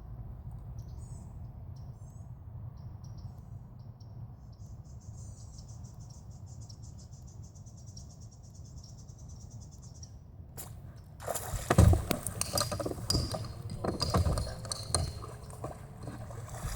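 A steady low hum with insects chirping and a high buzzing call. About eleven seconds in, a louder stretch of knocks, clicks and rustling begins, likely handling or tackle noise on the boat, and lasts several seconds.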